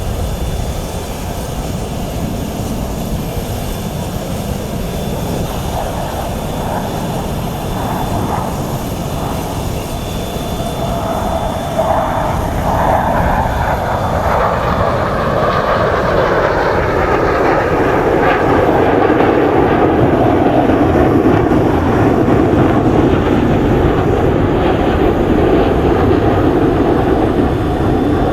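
Su-30SM fighter jets' turbofan engines roaring, swelling much louder about halfway through as the jets come closer, the roar sliding lower in pitch as they pass and then holding strong.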